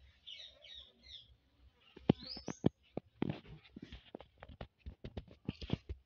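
Small birds chirping in short bursts in the first second, with a quick rising call about two and a half seconds in. From about two seconds on, a run of sharp, irregular clicks and taps, louder than the birds.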